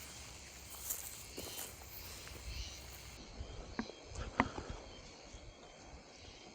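Faint outdoor ambience with insects chirping, broken by a few sharp clicks or knocks near the middle.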